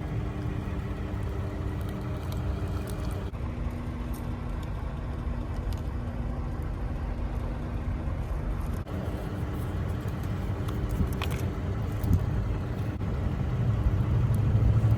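An engine running steadily: a low rumble with a faint steady hum, and a few faint clicks.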